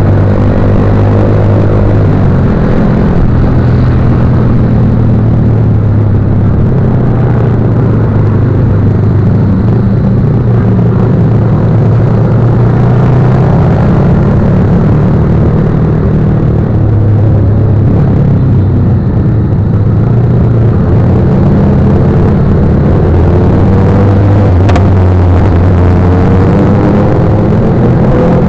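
Motorcycle engine running loud, its pitch rising and falling with the throttle.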